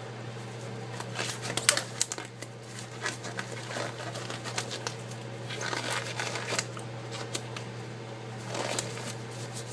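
Rubber gloves being pulled on and handled: several short bursts of rustling with light clicks, over a steady low hum.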